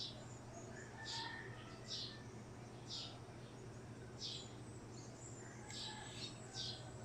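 A bird chirping repeatedly, short high chirps about once a second, over a faint low steady hum.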